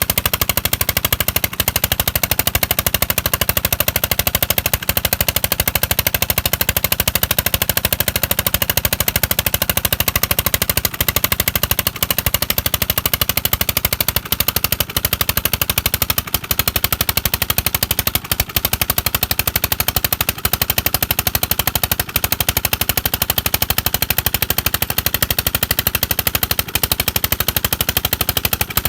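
Old single-cylinder 'Kala' diesel engine running steadily while driving a water pump, its exhaust giving a fast, even train of sharp beats.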